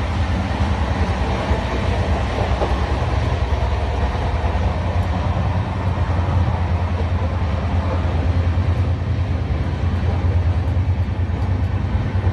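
Passenger train coach running, heard from inside the coach by the doors: a steady low rumble with rail noise.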